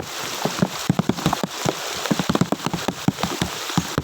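Rain falling on standing floodwater: a steady hiss with dense, irregular drops and small splashes, many each second.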